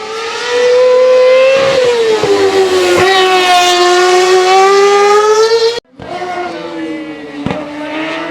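Race car engine at high revs, its pitch dipping about two seconds in and then climbing steadily again, with a sharp crack about three seconds in. Near the end the sound cuts off abruptly to another racing engine, quieter and with its pitch falling.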